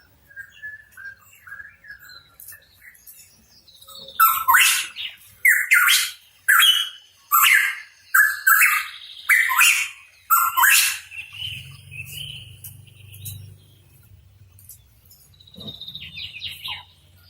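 Pitohui calling: soft chatter at first, then about four seconds in a loud run of around ten sharp notes over some six seconds, followed by a softer drawn-out call and faint chatter near the end.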